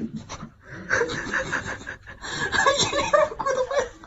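A person laughing, a run of chuckles in two bouts.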